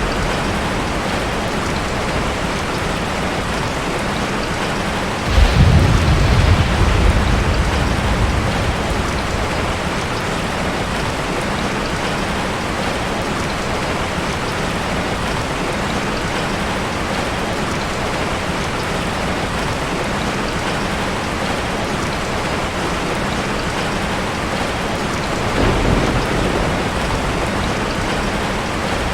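Steady rain falling, with a low rumble of thunder swelling about five seconds in and lasting a few seconds, and a fainter rumble near the end.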